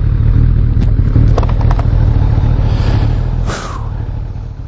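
Motorcycle on the move: engine and heavy wind rumble on the bike-mounted or helmet microphone, with a few sharp clicks. The rumble drops noticeably about three and a half seconds in.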